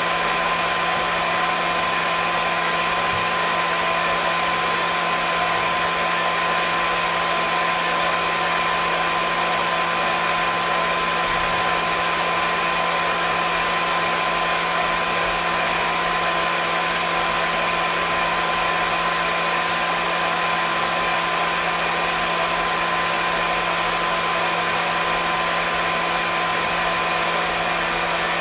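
Hair dryer running continuously at a constant setting: a steady rush of blown air with a whine from the motor and fan, never changing.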